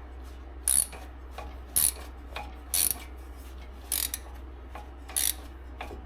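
Hand ratchet clicking in short bursts on each return stroke, about once a second, as a stiff bolt is turned out.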